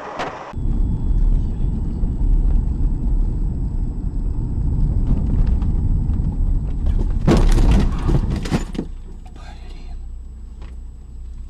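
Dashcam audio of a car on the road: a steady deep road-and-engine rumble, then a burst of loud bangs and clatter about seven to eight and a half seconds in, the sound of a collision, after which the rumble drops lower.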